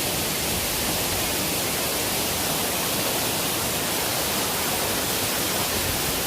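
Waterfall roar: steady, even rushing of falling water into the plunge pool, heard close up.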